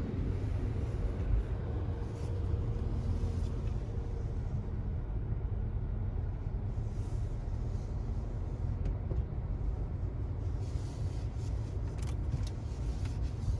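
Steady low rumble of a car running, heard from inside the cabin, with a few faint clicks near the end.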